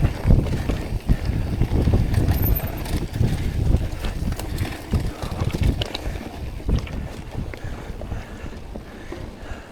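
Mountain bike riding over a dirt trail: low wind buffeting on an action camera's microphone, with irregular knocks and rattles from tyres and bike over the ground, heavier in the first six seconds.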